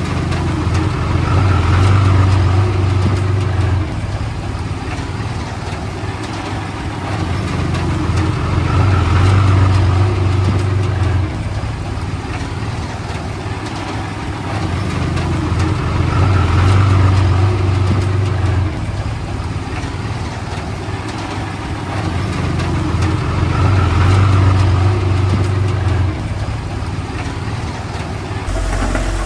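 Komatsu D31P crawler bulldozer's diesel engine working, revving up under load and easing back in a regular cycle about every seven and a half seconds, four times over.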